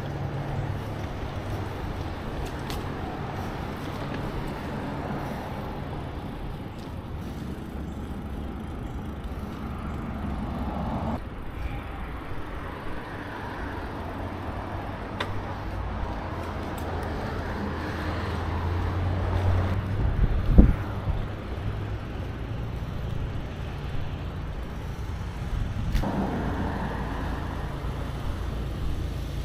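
Steady low road and wind rumble from riding along a road, with motor vehicles swelling past several times. About two-thirds of the way through comes a single sharp knock, the loudest sound.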